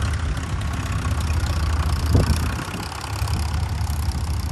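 An engine running steadily at idle with a deep, even hum, and a brief louder thump about two seconds in.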